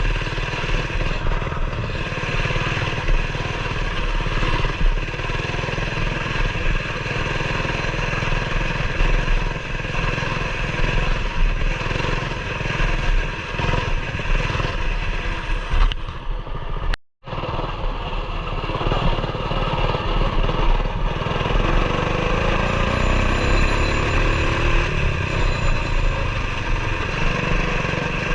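Coleman BT200X mini bike's single-cylinder four-stroke engine, fitted with an aftermarket exhaust, running steadily under way on a trail. It cuts out abruptly for an instant about two-thirds through, then its pitch climbs as it speeds up near the end.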